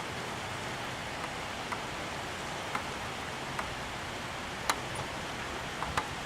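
Steady hiss of heavy storm rain, with irregular sharp ticks of drops hitting a hard surface close by, the loudest a little under five seconds in.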